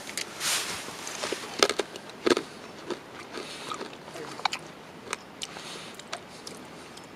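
Rustling and a series of sharp clicks and knocks, the loudest about one and a half and two and a quarter seconds in, like things being handled.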